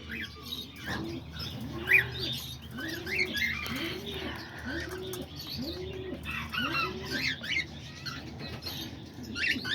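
A dove cooing in a steady run of about six rising-and-falling coos, with small parrots such as budgies, cockatiels and lovebirds chirping and squeaking over it.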